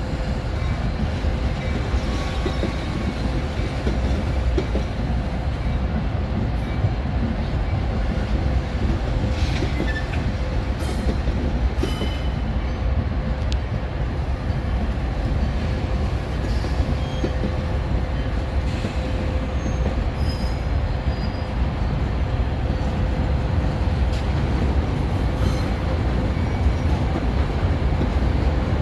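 A train rolling steadily along the rails, with a few short high squeals from the wheels in the middle.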